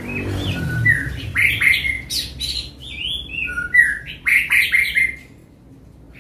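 A bird calling in a quick run of short chirping notes that slide up and down in pitch, stopping about five seconds in.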